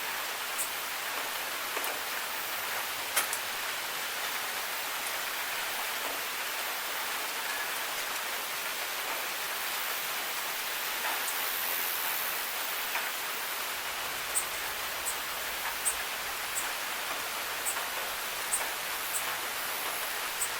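Steady rain falling, with sharp drip ticks now and then that come more often near the end.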